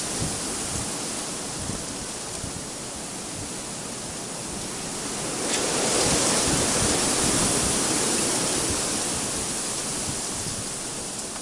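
Blizzard wind rushing steadily, with a gust that swells about halfway through and slowly dies away.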